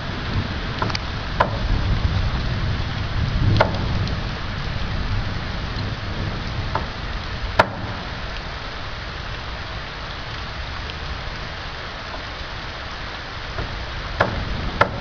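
Steady heavy rain, with a few sharp taps a few seconds apart.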